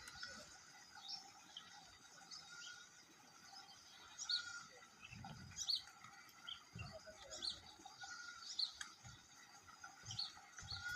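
Birds chirping: short high chirps repeated irregularly, with a couple of low thumps about halfway through.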